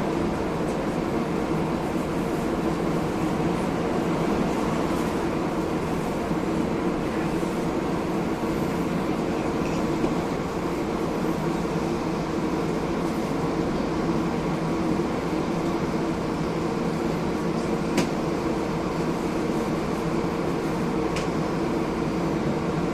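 Steady cabin noise inside a Hiroden 1000-series Green Mover LEX low-floor tram, with two short sharp clicks near the end.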